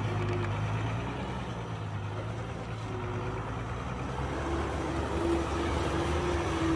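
Heavy diesel earthmoving machinery running steadily with a low engine drone, and a faint higher whine that comes and goes, strongest in the second half.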